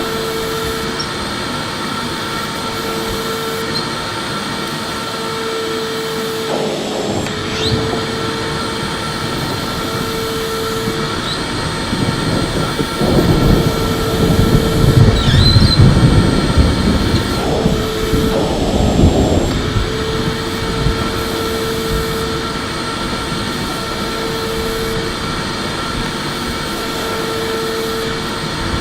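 Electric vacuum cleaner running steadily with a high whine, and a low tone that switches on and off every two to three seconds. From about twelve seconds in, the noise grows louder and rougher for several seconds, then settles back.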